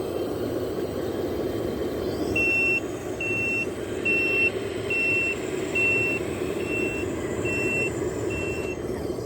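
Reversing beeper of a 1/14-scale RC truck: eight even, high-pitched beeps, about one a second, starting a couple of seconds in, over a steady background noise.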